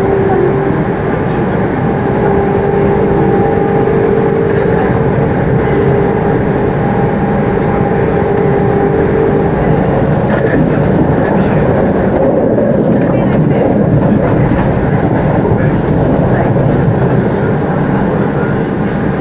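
Class 387 electric multiple unit running at speed, heard from inside the carriage: a steady rumble of wheels on rails with a humming motor whine that fades out about ten seconds in.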